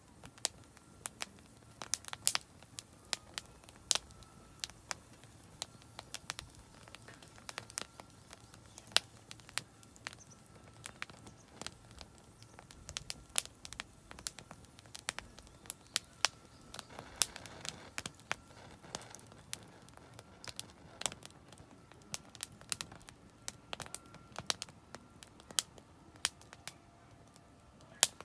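Oak firewood burning in a campfire, crackling with irregular sharp pops and an occasional louder snap.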